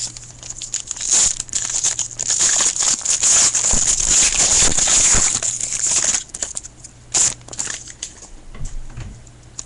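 A trading-card pack wrapper being torn open and crinkled by hand: a loud, dense crinkling for about five seconds, then a few light rustles and clicks as the cards are handled.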